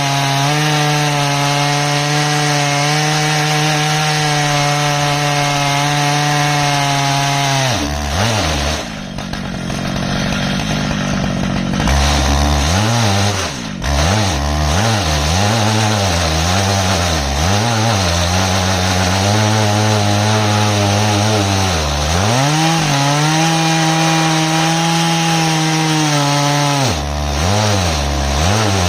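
Stihl MS 881 two-stroke chainsaw on an Alaskan chainsaw mill, milling an ash log. It runs at a steady high speed, and about eight seconds in its speed drops sharply. The engine then revs up and down repeatedly, settles back to a steady high speed, and begins surging again near the end.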